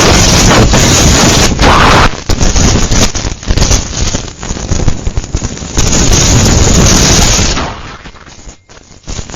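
Hurricane Ida's wind blowing in strong gusts across the microphone: a loud, steady rush of noise with a heavy low rumble that eases off near the end.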